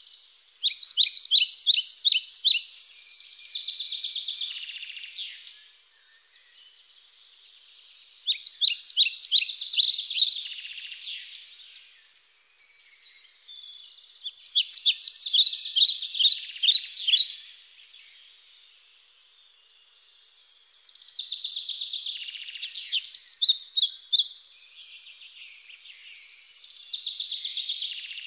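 A songbird singing: phrases of rapid, high notes a few seconds long, repeated about every six seconds with short pauses between.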